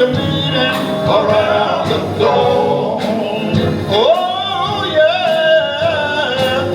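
Male gospel quartet singing live, with held notes and sliding melismatic lines over a steady beat.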